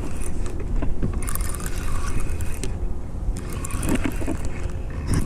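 Handling noise as a hooked channel catfish is reeled in to a kayak: scattered clicks and knocks of rod and reel over a steady low rumble.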